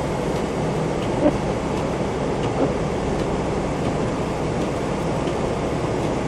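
Steady road and tyre noise of a car driving on a wet, slushy road, with a low engine hum underneath.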